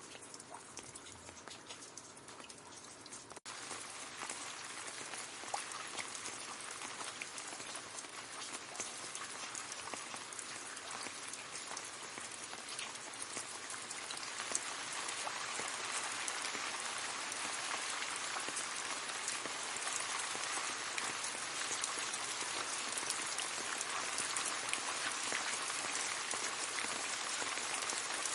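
Rain falling on leaves: a steady patter of many small drops. It is lighter for the first few seconds, breaks off for an instant about three seconds in, then comes back denser and grows gradually heavier.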